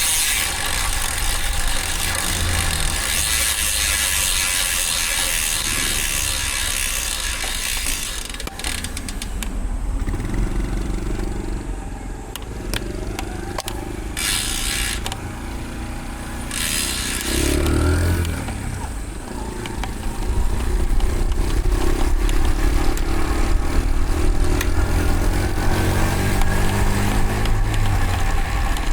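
Motor traffic heard from a moving road bike: wind and road hiss on the bike-mounted microphone, then engines running close by. For the last third an engine grows louder and slowly rises in pitch.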